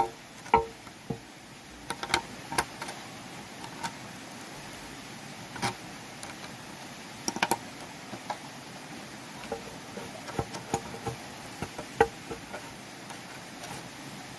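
Irregular knocks and taps, several with a short hollow ring, spaced unevenly with gaps of up to a few seconds.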